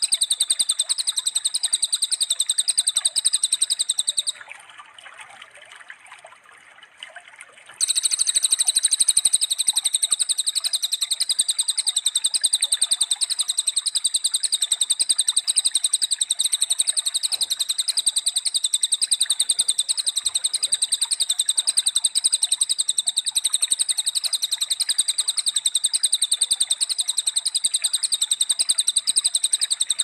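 A bird's rapid, chattering trill of identical high notes at one unchanging pitch. It breaks off about four seconds in, returns some three seconds later, and then runs on without a break.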